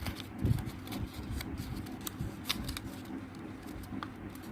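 Folded sheet of paper being handled and opened out, rustling and crinkling with scattered crisp crackles, and a soft thump about half a second in. This is the final opening-out step of folding a paper sword boat.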